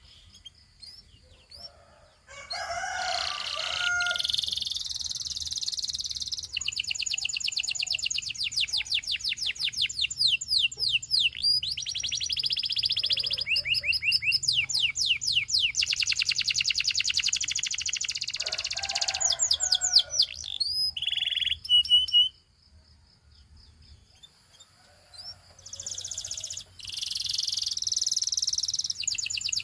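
Canary singing long phrases of rapid trills, fast runs of repeated high notes and sweeping notes. It starts about two seconds in, breaks off for about three seconds past the middle, then starts again near the end.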